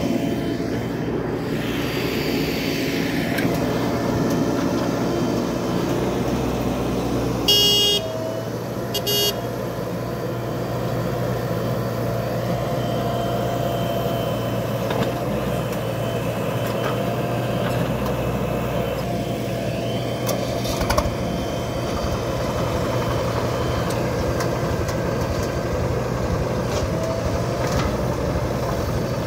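Swaraj 735 tractor's diesel engine running steadily under load while pulling a fully loaded trolley. A vehicle horn honks twice, briefly, about seven and nine seconds in.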